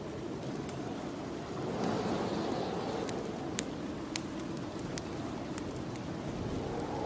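Snowstorm wind blowing steadily, swelling in a gust about two seconds in, with scattered sharp crackles and pops from a wood fire in a fireplace.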